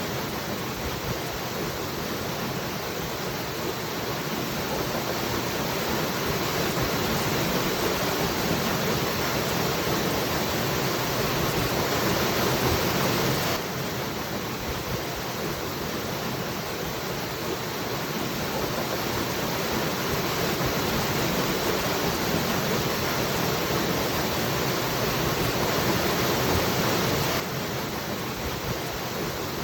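Waterfall rushing in a steady, dense wash of noise, swelling slowly and dropping back abruptly about every fourteen seconds, like a looped recording.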